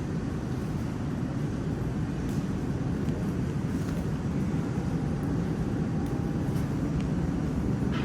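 Metro train running: a steady low rumble with a few faint clicks.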